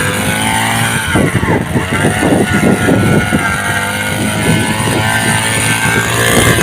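Small engine of a mini weeder (engine-driven kolpe inter-cultivator) running under load, with a brief dip in engine pitch about a second in.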